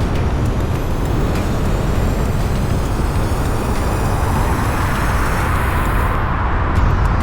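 Steady road and engine noise of a car driving, with a swell of louder tyre noise in the second half.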